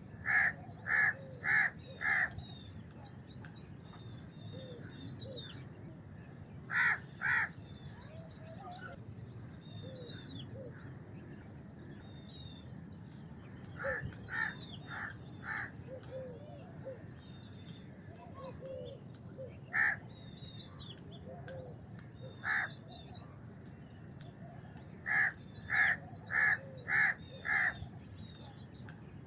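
House crows cawing in short runs of loud caws: groups of four or five, a pair, and single calls. Smaller birds keep up high twittering chirps the whole time.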